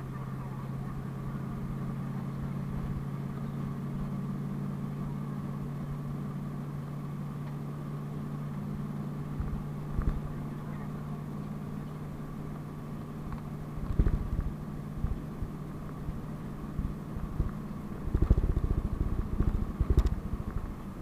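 PAZ-32054 bus engine running at a steady pitch, heard from inside the cabin. Knocks and rattles from the bus body come a few times, with a dense run of them near the end as the engine hum drops away.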